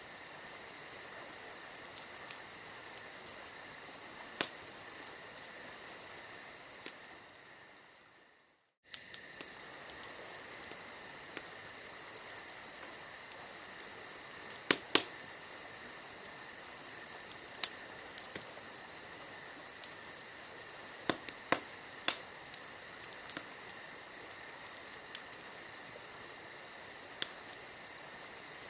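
Wood campfire crackling with scattered sharp pops, over a steady high chirping of crickets. The sound fades out about eight seconds in and comes back abruptly a second later.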